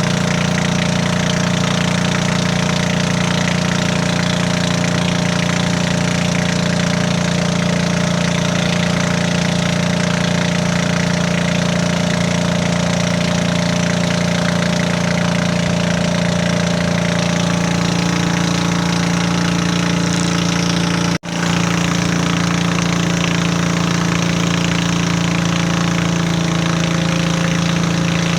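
The Hitachi backhoe's Isuzu 6BD1 six-cylinder diesel engine running steadily with a clattering diesel note, broken by a momentary gap about three-quarters of the way through.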